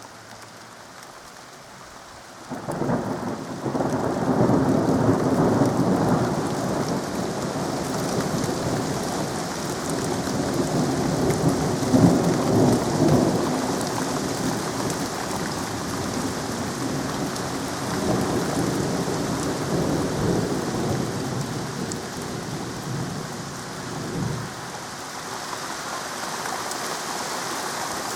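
Long rolling thunder rumble that breaks in about two and a half seconds in, swells several times and dies away near the end, over steady rain.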